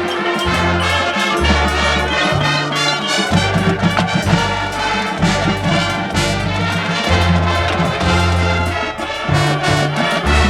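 High school marching band playing loud full-ensemble music, brass carrying the melody over sustained low brass notes and percussion hits.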